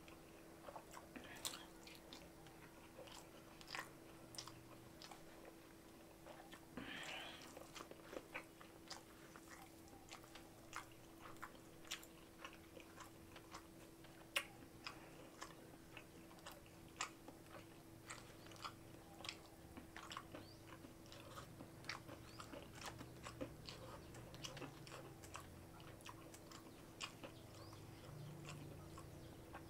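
Close-up mouth sounds of a man chewing a mouthful of rice and jengkol stew: many short wet clicks and smacks at an uneven pace, over a faint steady hum.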